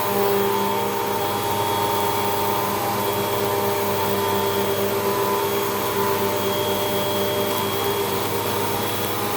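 Hoover WindTunnel 2 Rewind bagless upright vacuum running steadily, with an even motor hum and airflow while it picks up dirt.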